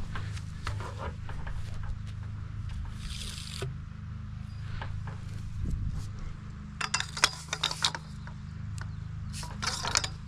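A small engine idling steadily as a low hum, with bursts of clicking and rattling from gear being handled about two thirds of the way in and again near the end.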